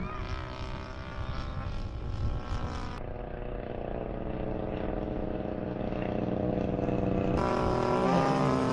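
Model airplane engine running at a steady pitch and growing a little louder, with abrupt changes in the sound about three seconds in and again near the end.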